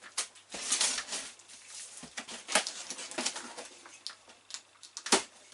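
Cardboard box of a mitre saw being opened: packing tape tearing and cardboard and packaging rustling in irregular bursts, with a sharp knock about five seconds in.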